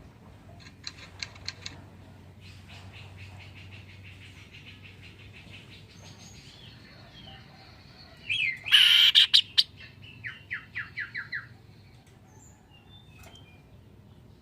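Caged kaso-kaso songbird singing. A few sharp chirps give way to a long, rapid rattling trill. About eight seconds in comes a loud burst of calls, followed by a quick run of about six short, falling notes.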